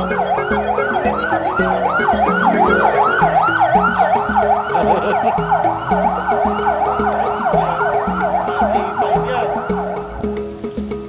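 Emergency vehicle siren in a fast yelp, rising and falling about three times a second, fading away near the end. Background music with a repeating pattern plays underneath.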